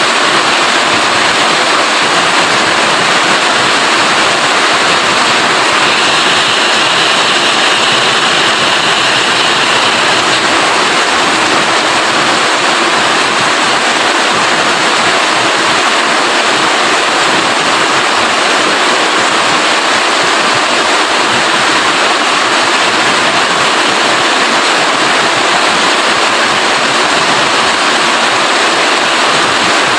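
Heavy rain falling steadily, a dense even hiss that grows a little brighter for a few seconds about six seconds in.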